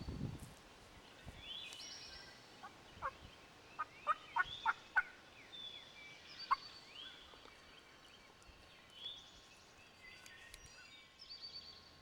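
Wild turkey gobbler gobbling: a quick rattling run of notes about four seconds in, with single sharp notes just before and after it. Small birds sing higher-pitched phrases throughout.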